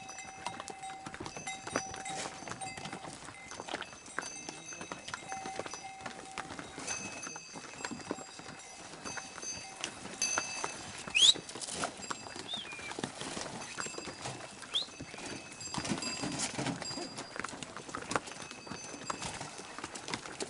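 Hooves clopping irregularly on a stony mountain path, with small bells on the pack animals ringing in short bursts. A few brief rising chirps sound about halfway through.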